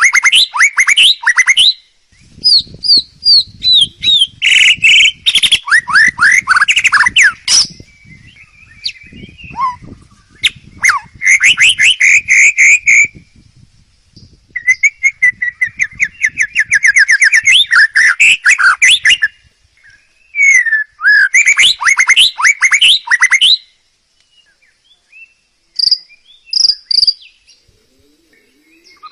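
Songbird singing loudly in phrases of rapid, repeated whistled notes and trills, each phrase a few seconds long with short pauses between, thinning to a few short notes near the end.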